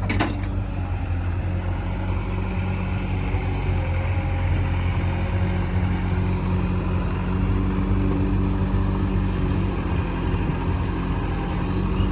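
Heavy diesel engine running steadily, an even engine hum with no change in pitch.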